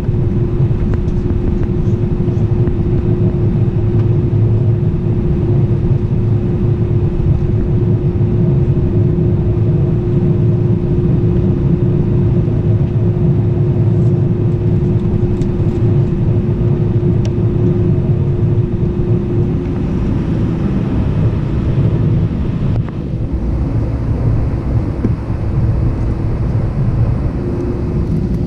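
Steady rumble of an Airbus A319 cabin, engine and airflow noise, with a constant drone held underneath. A little quieter for the last few seconds.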